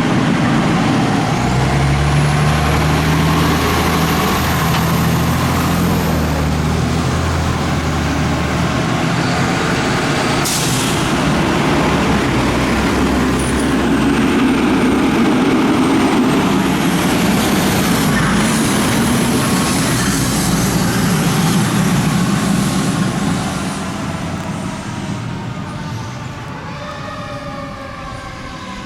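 Fire truck responding under siren, its engine running loud, with a short air hiss about ten seconds in. Near the end the sound fades and its pitch slides downward as the truck moves away.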